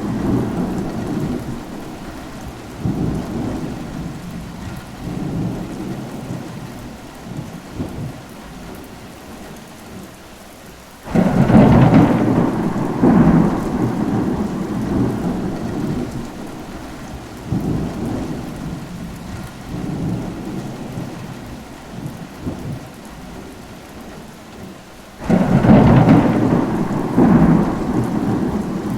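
Thunderstorm: steady rain with rolling thunder. Two sudden loud claps come about 11 and 25 seconds in, each followed by rumbling that swells and fades over several seconds.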